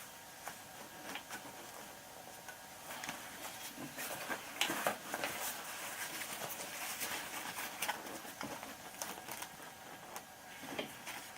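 Sewing machine running in short spurts, zigzag-stitching a patch onto a wetsuit, with small clicks from the machine and the fabric being handled; busiest in the middle.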